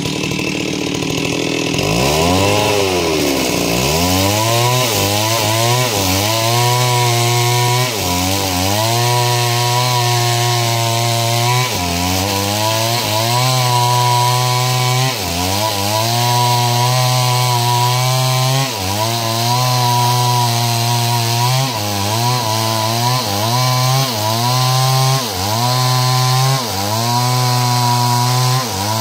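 Stihl two-stroke chainsaw running hard while ripping a log lengthwise into planks. Its revs sag and recover about two to four seconds in. It then holds a high, steady note with short dips every second or two as the chain bites into the wood.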